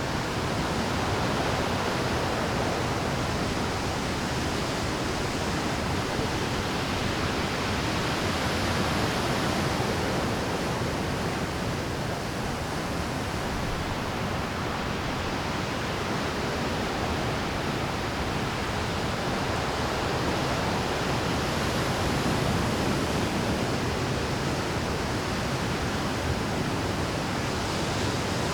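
Rough Pacific surf breaking continuously on a rocky shore at high tide: a dense, unbroken wash of water noise that swells slightly every several seconds as larger waves come in.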